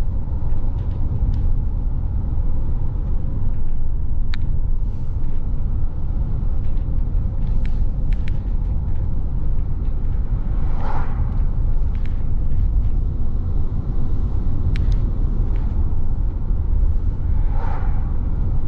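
Steady low rumble of a car driving, engine and tyre noise heard from inside the cabin, with scattered light clicks and two short higher-pitched sounds, one about eleven seconds in and one near the end.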